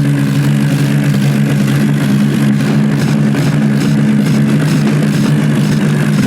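Diesel tractor engine running at steady high revs under load, as the tractor pulls against another in a tug-of-war, with a constant unchanging drone.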